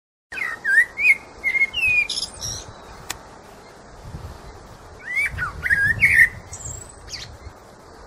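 Birds chirping and calling: short whistled notes that glide up and down, in two bouts, over a steady outdoor hiss.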